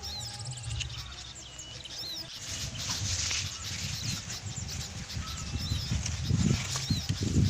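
Small birds chirping repeatedly in short, quick calls over a low rumbling noise that swells louder near the end.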